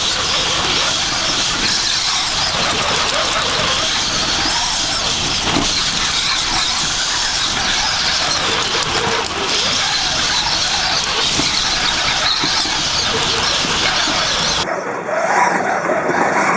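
Storm-force wind of a desert dust storm blasting the microphone, a loud, steady rush with a high wavering whistle in it. The sound changes abruptly near the end, losing its highest hiss.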